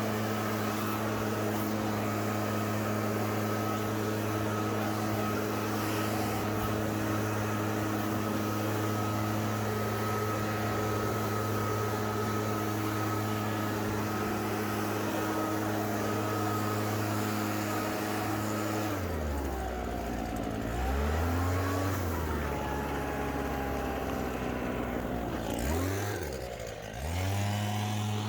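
Small gas engine of a handheld yard tool running steadily at high throttle. About nineteen seconds in it drops to idle, revs up briefly and falls back, then revs up again near the end.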